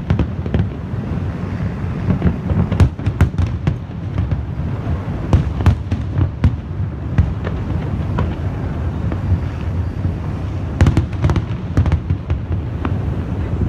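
Fireworks going off without a break: a dense run of sharp bangs and crackles over a steady low rumble, with thicker clusters of cracks about three seconds in, around five to six seconds, and again near eleven seconds.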